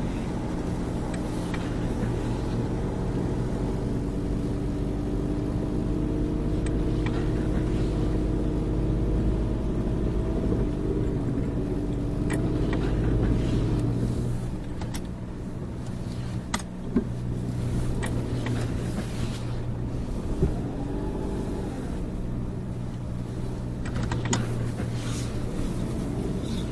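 Snowmobile engine running steadily under way, easing off about halfway through, with a few sharp knocks in the second half.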